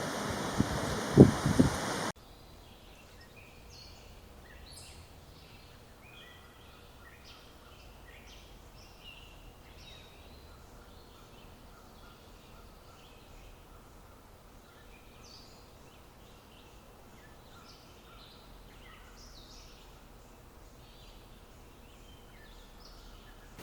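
Wind buffeting the microphone with a few sharp knocks, cutting off suddenly about two seconds in. After that, small birds call again and again: many short, high chirps and twitters over a quiet background.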